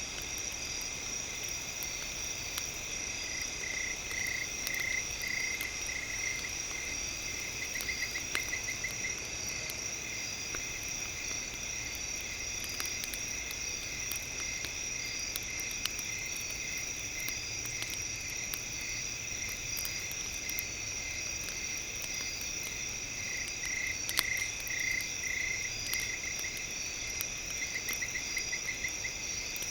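Campfire ambience: sparse small crackles over a steady, high-pitched chorus of insect-like chirping. Twice, a spell of rapid chirps stands out.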